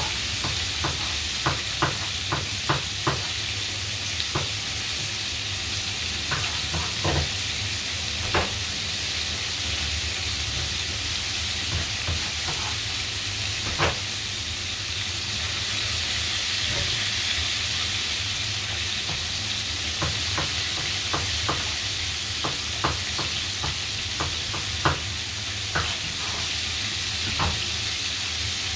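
Breaded chicken pieces shallow-frying in hot oil in a frying pan: a steady sizzle with scattered sharp crackles and pops from the oil.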